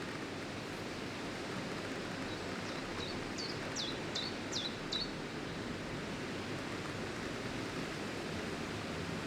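Steady rustle of wind through leaves. About three seconds in, a bird sings a brief phrase of about six quick, high notes, each sweeping sharply downward.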